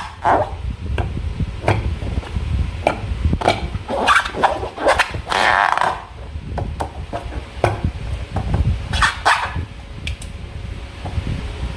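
Slime being squeezed and worked by hand, giving irregular wet squelches, sticky clicks and small pops.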